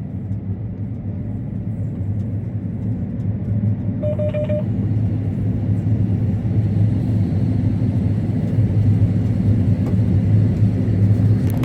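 Combine harvester running steadily while harvesting corn, heard from inside the cab, with a short electronic tone about four seconds in.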